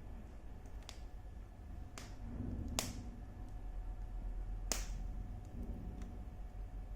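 Wood fire crackling in a fireplace: a low steady rumble of flames with a few sharp pops, the two loudest near the middle and about two seconds later.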